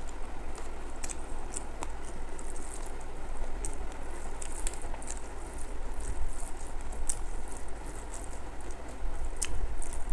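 Close-up eating sounds: wet chewing of rice and curry with irregular small smacking clicks.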